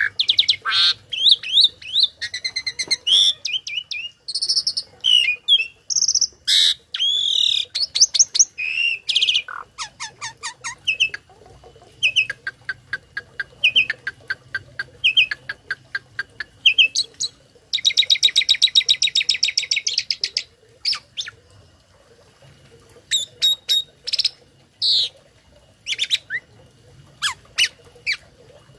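A tame starling (jalak) singing a fast, varied song of whistles, repeated notes and harsh chatters, with calls copied from other birds mixed in. About two-thirds of the way through comes a long, harsh, buzzy rattle, followed by a quieter spell before the song picks up again.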